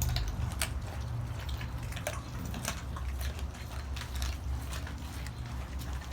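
Dogs chewing raw chicken bones: irregular wet crunches and clicks over a steady low rumble.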